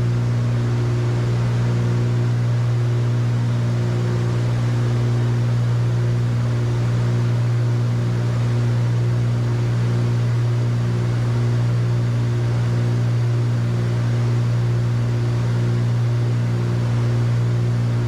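Cessna 310Q's twin piston engines and propellers droning steadily in cruise, heard from the cockpit. A slow, regular pulsing beat repeats about every one and a half to two seconds.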